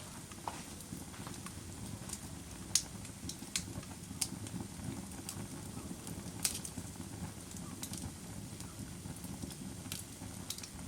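Fire crackling: sharp pops at irregular moments over a steady low rustle of burning. The loudest pops come about three and six and a half seconds in.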